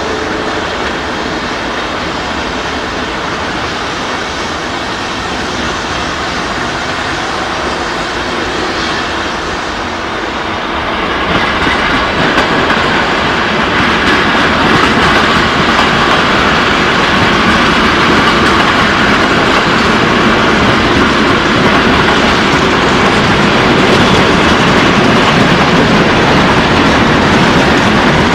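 German passenger train of silver coaches and a red DB diesel locomotive rolling past at close range, wheels clattering over the rail joints. It gets louder about eleven seconds in as the train draws near.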